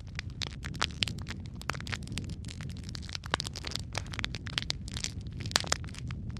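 Wood fire burning in a fireplace: dense, irregular crackling and popping of the burning logs over a steady low rumble of the flames, with a couple of sharper, louder pops.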